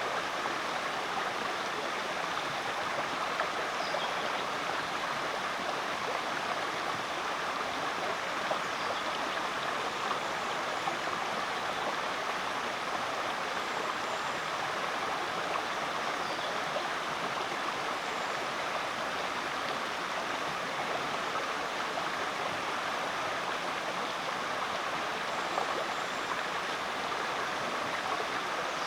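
Rainforest creek flowing steadily: a constant, even rush of running water, with a few faint high chirps now and then.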